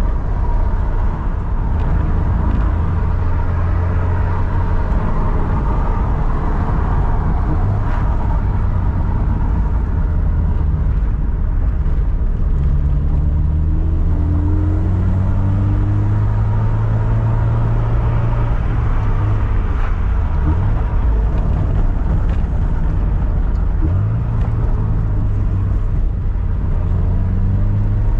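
Toyota 86's flat-four engine and road rumble while driving. The engine note climbs slowly for several seconds at a time as the car accelerates, dropping back a couple of times, as at gear changes.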